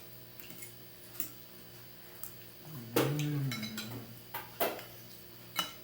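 A spoon or other cutlery clinking against a plate or bowl during a meal, about seven separate clinks, the loudest about three seconds in and a quick pair near the fourth and fifth seconds. Right after the loudest clink comes a brief low voice sound.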